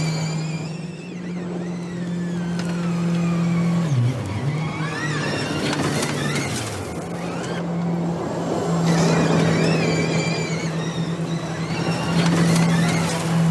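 Audi RS Q e-tron Dakar rally car driving off-road: a high electric-drive whine rising and falling with speed over a steady low hum. The hum dips and wavers about four seconds in.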